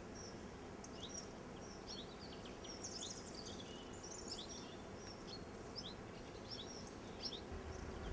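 Small birds chirping: many short, high chirps scattered over a faint outdoor background. A low rumble comes in near the end.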